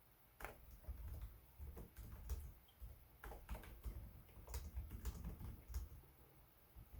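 Typing on a Lenovo Legion 5 Pro laptop keyboard: quiet, irregular keystroke clicks that start about half a second in and thin to a lull near the end.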